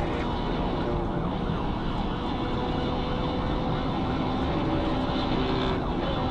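Police patrol car siren wailing over steady vehicle engine and road noise during a high-speed pursuit.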